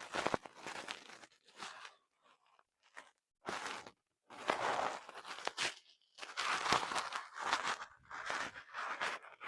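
Close-up crunching, crinkling handling noises in a series of separate bursts, each under a second to about a second and a half long, with short silences between them.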